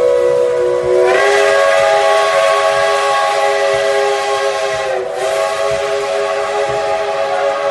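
Steam locomotive whistle blowing one long blast of several notes at once. It grows fuller about a second in, dips briefly near five seconds, and cuts off near the end.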